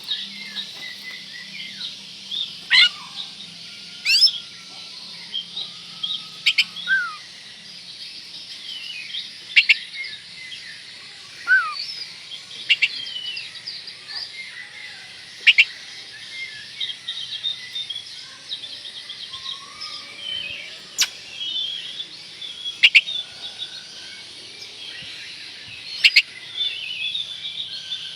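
Oriental magpie-robin (kacer) song: loud, sharp whistled notes every one to three seconds and occasional lower whistled glides over continuous high twittering.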